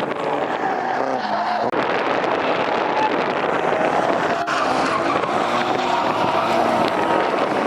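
Drift car engine held at high revs with tyres squealing and skidding as the car slides.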